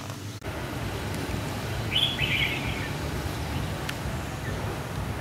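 A small bird chirping briefly about two seconds in, over a steady low background rumble of outdoor noise.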